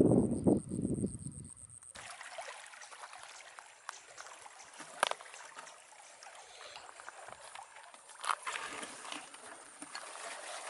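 Water sloshing and trickling, with a few sharp clicks and knocks, after a brief loud low sound at the start.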